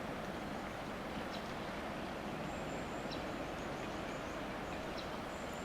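Steady outdoor background noise, an even dull rush without any pitched engine note, with faint short high chirps from birds now and then.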